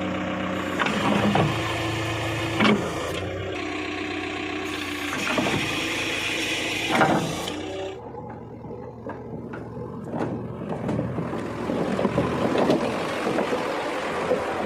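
JCB 3DX backhoe loader's diesel engine working under load, with several sharp clanks. The engine note changes about eight seconds in.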